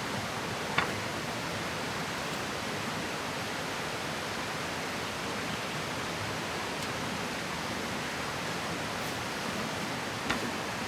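Steady rushing of a flowing river, with two faint sharp clicks, about a second in and near the end.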